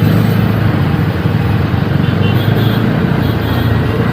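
Steady low rumble of a motorcycle on the move.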